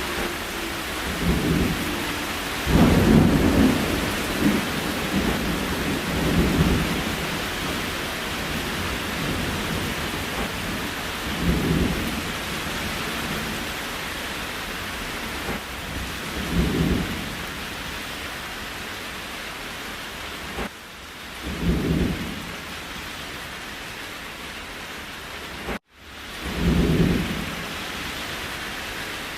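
Steady rain, with short low rumbles swelling up about every five seconds. The whole sound cuts out for an instant near the end.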